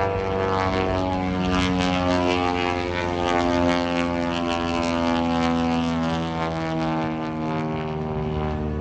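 Propeller airplane's piston engines droning loudly as it flies past, the engine pitch slowly drifting up and down.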